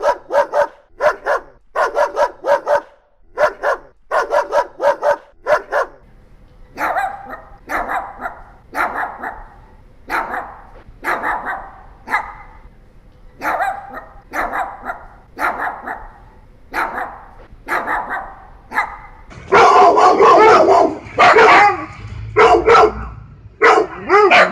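Dogs barking in repeated short barks. A quick run of barks gives way about six seconds in to barking roughly once a second over a low hum, then to louder, denser barking near the end.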